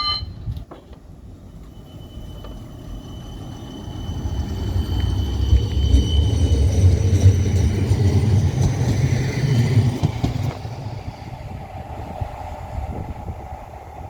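West Midlands Metro tram passing: a low rumble that builds over the first few seconds, is loudest in the middle and fades away near the end, with a thin high whine over it. A short high tone sounds right at the start.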